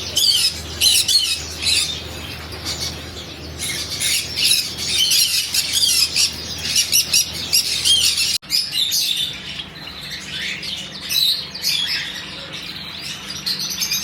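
A crowd of caged birds chirping and squawking together, a dense chatter of quick high calls, with a short break about eight seconds in.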